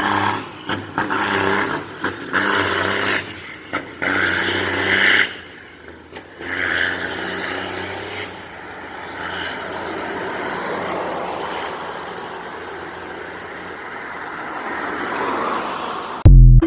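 Freightliner Coronado semi-truck's diesel engine running loudly in uneven surges for about five seconds, then a steady rush of the moving truck that slowly fades. A short, very loud burst cuts in near the end.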